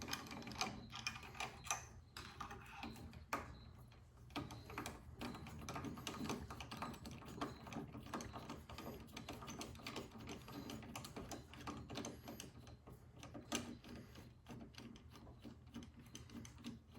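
Quiet, irregular clicking and light metal tapping of a ratchet wrench and socket as the carburetor's two mounting bolts are backed out of the snowblower engine's intake manifold.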